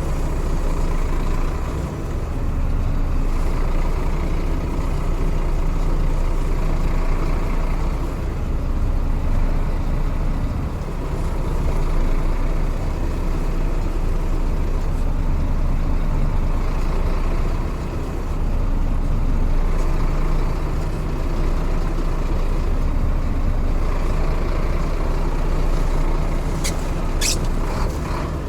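Scania truck's diesel engine running steadily, dipping briefly now and then, with two short, sharp hisses near the end.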